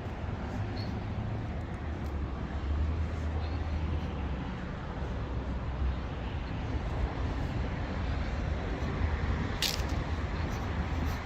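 Steady outdoor noise of road traffic with a low rumble, and one sharp click near the end.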